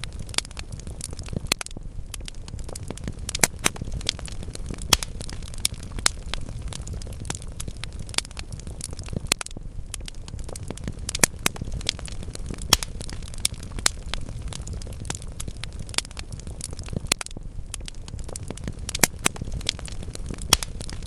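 Burning wood logs crackling, with frequent irregular sharp pops over a steady low rush of flame.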